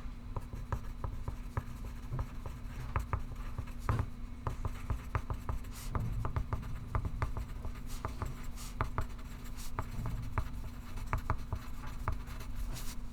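Pencil writing on paper: a continuous run of short, irregular scratching strokes, over a steady low hum.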